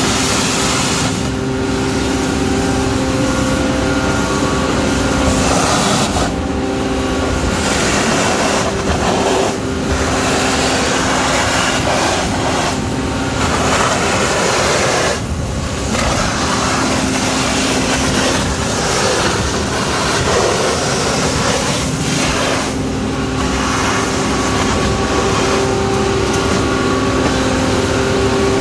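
Scania vacuum loader truck's machinery running steadily and loudly: a drone with several held humming tones and a hiss over the top that thins briefly now and then.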